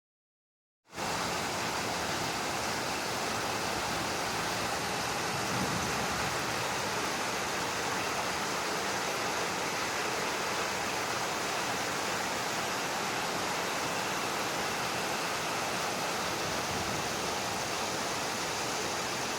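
Heavy rain pouring down on a tin roof: a steady, dense hiss that starts about a second in and holds at an even level.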